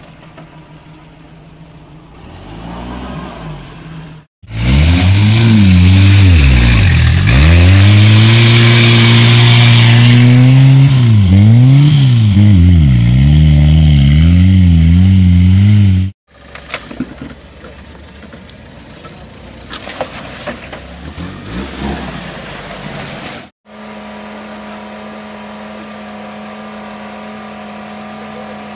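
Lada Niva's engine revving hard and unevenly, its pitch swooping up and down again and again as the car spins circles on grass; this is the loudest sound. Quieter engine noise lies either side, ending with a UAZ off-roader's engine running at a steady speed as it crawls over rocks.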